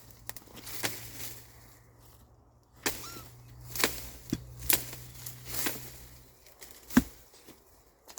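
Sticks and brush being pulled and handled, giving irregular rustles and cracks, with one sharper crack about seven seconds in.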